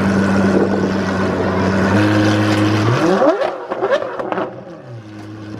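High-performance car engine running steadily, then revved in a few quick sharp blips about three seconds in, before settling down quieter.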